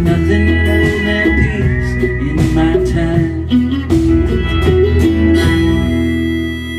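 Live rock band with guitars playing the closing bars of a song, the drums stopping about five and a half seconds in and the final chord left ringing.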